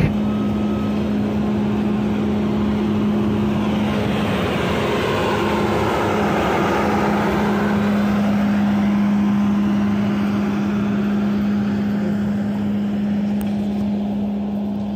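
Passenger train of coaches rolling past the platform: a continuous rumble and rush of wheels on the rails, strongest as the last luggage van goes by, with a steady low hum throughout.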